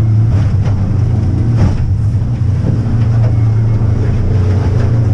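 Fishing boat's motor running steadily at slow speed, a loud low drone, with a brief higher noise about a second and a half in.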